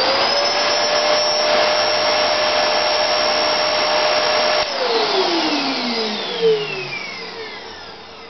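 Electrolux vacuum cleaner motor finishing its spin-up to a steady high whine, running for about four and a half seconds, then switched off and winding down with a slowly falling whine.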